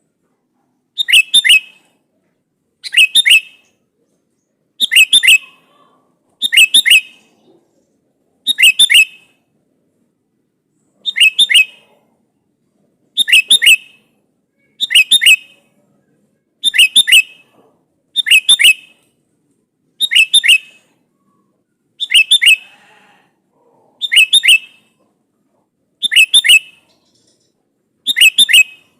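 Sooty-headed bulbul (kutilang) calling loudly: a short phrase of two or three quick notes repeated about every two seconds, with one longer pause near the middle. It is the bulbul's call to a rival, meant to draw another kutilang to answer.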